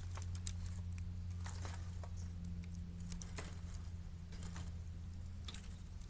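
Bamboo fire burning in an open-bottomed 18-litre square metal can, crackling with irregular small pops and snaps over a steady low hum.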